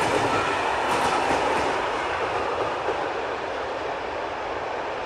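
A rail bus rolling along the track and pulling away: a steady rumble and hiss that slowly fades.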